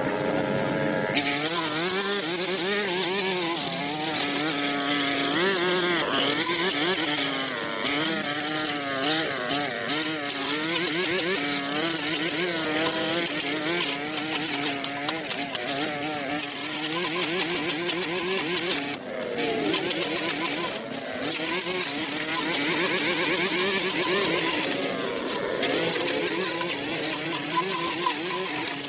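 An engine running under changing load, its pitch wavering up and down, over a steady hiss; it drops briefly twice.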